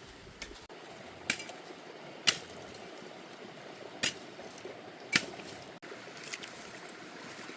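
A series of sharp knocks, about five, spaced unevenly a second or so apart, over a faint steady background noise.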